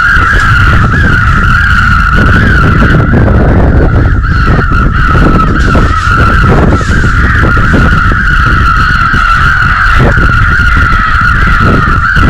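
Strong wind buffeting the microphone: a loud, unbroken low rumble, with a steady, slightly wavering high whistle over it.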